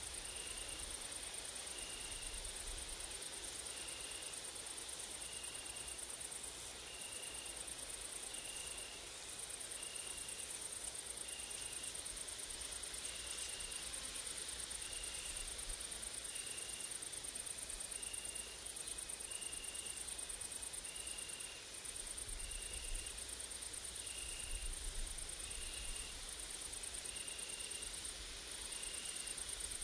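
Grasshoppers and crickets stridulating in summer woodland: a steady high-pitched buzz that breaks off briefly a few times, with a short chirp repeating about once a second. A faint low wind rumble lies underneath.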